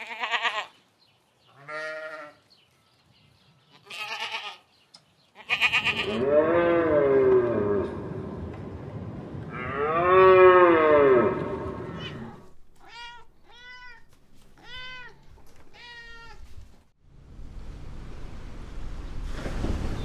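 Goat bleating: a few short bleats, then two long wavering bleats. A run of five short calls follows, and in the last few seconds there is a steady wash of surf on a beach.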